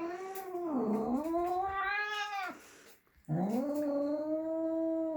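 Domestic cat giving two long, drawn-out meowing yowls with a short pause between, the pitch dipping and rising within each call: the cat demanding to be let outside.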